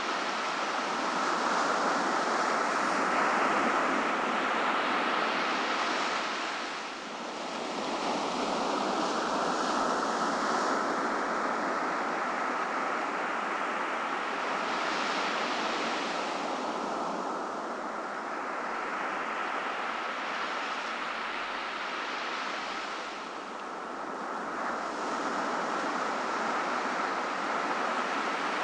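Ocean surf: waves breaking and washing up a beach in a steady rush, easing off briefly three times before the next wave builds.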